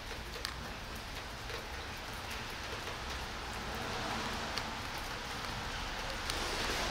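Steady rain falling on wet asphalt and puddles: an even hiss with the small ticks of individual drops, a little louder near the end.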